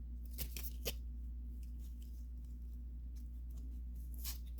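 Pokémon trading cards being handled and flipped through: a few faint clicks and slides of card stock over a steady low hum.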